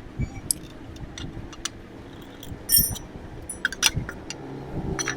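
Scattered metal clicks and clinks with a few dull knocks, the two loudest about three and four seconds in: hand tools and engine parts being handled during a timing chain job.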